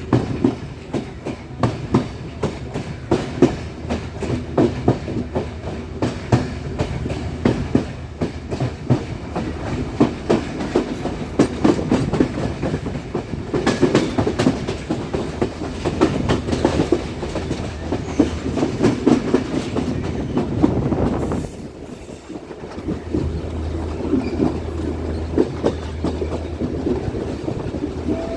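Train running along the track, its wheels clicking and knocking over rail joints with a steady rumble. It goes briefly quieter about three-quarters of the way through, after which a steady low drone joins the clicking.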